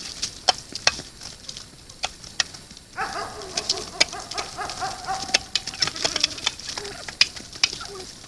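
Birds pecking grain at a feeder, giving sharp irregular clicks. From about three seconds in, a wavering animal call joins them.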